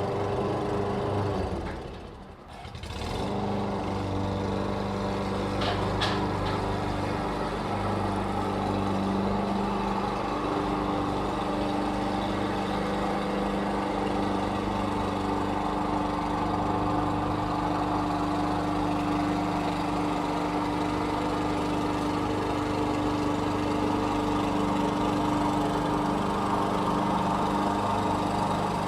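Lawn mower engine running steadily; its sound drops away briefly about two seconds in, then comes back and runs on evenly.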